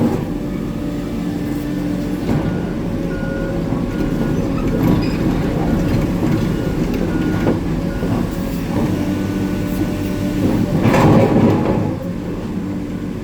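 Hitachi 890 excavator's diesel engine working steadily while handling shot rock, with scattered knocks and clatter. Near the end, a louder rattling rush lasts about a second.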